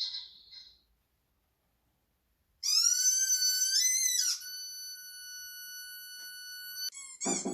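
Whistle-like sound played back from a recording: a loud pitched tone that bends upward and wavers for about two seconds, then holds a quieter steady tone for about two and a half seconds. Short chirps follow near the end.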